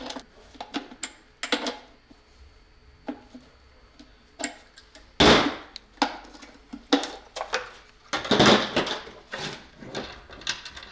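Workbench handling of tools and small parts: scattered clicks and knocks, with two louder rasping bursts about five and eight and a half seconds in.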